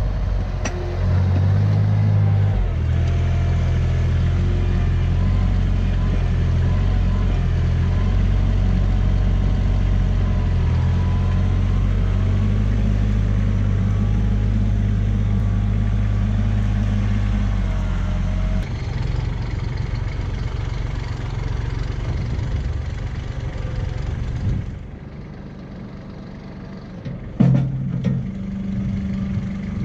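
Kubota tractor's diesel engine running with a steady low drone; about two-thirds of the way through it turns rougher and quieter, with a sharp knock near the end.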